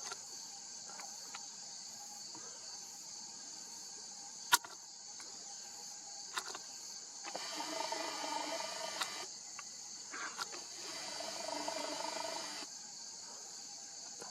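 Steady high chirring of crickets, with a sharp click about four seconds in. Near the middle and again toward the end come two spells of whirring that start and stop abruptly: the Nikon P1000's lens zoom motor running.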